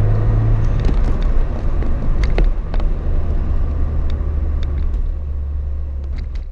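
Turbocharged Toyota Yaris TS engine and exhaust running with a low drone whose pitch steps down about a second in and again near the end as the revs settle, with scattered light ticks over it. The overall sound slowly fades.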